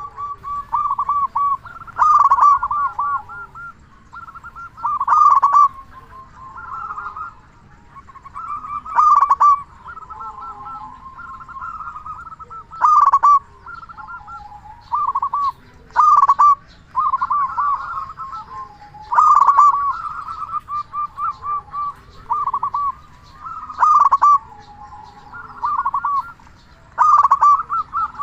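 Zebra dove (perkutut) cooing over and over: loud phrases of quick, rolling notes come every three to four seconds, with softer cooing between them.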